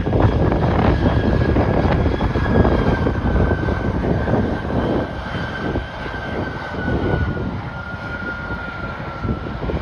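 Airliner engines passing close by, a steady whine slowly falling in pitch and the overall sound fading a little after a few seconds, with wind buffeting the microphone.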